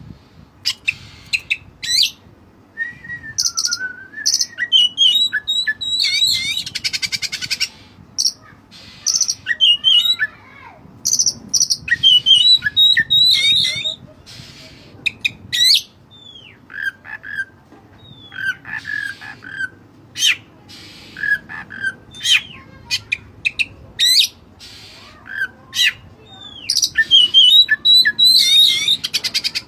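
An oriental magpie-robin (white-breasted kacer) sings loudly and steadily, a varied stream of whistled notes, quick up-and-down sweeps and fast buzzy trills. The song is studded with mimicked cililin phrases.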